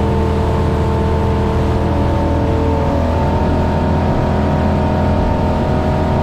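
Motorboat engine running steadily at cruising speed, about 35 mph, with its pitch shifting slightly about halfway through.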